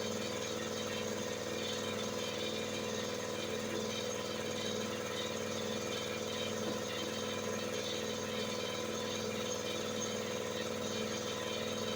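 A motor running steadily at constant speed, giving an even hum with several steady tones.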